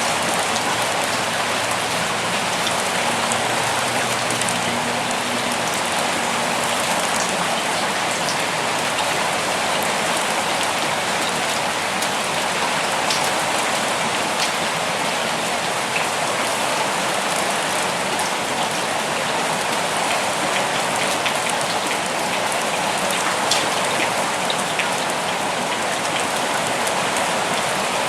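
Steady rain falling, a dense even hiss with scattered individual drops ticking on leaves and surfaces.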